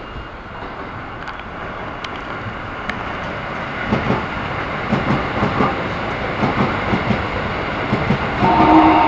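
Keikyu 1000-series stainless commuter train pulling into the platform, its running noise growing louder as it comes alongside. From about halfway, its wheels knock over rail joints in a regular clickety-clack. Near the end a station departure bell starts ringing.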